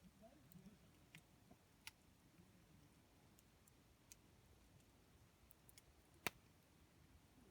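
Faint crackle of a wood campfire: a few sharp, scattered pops and clicks from the burning wood, the loudest about six seconds in, over near silence.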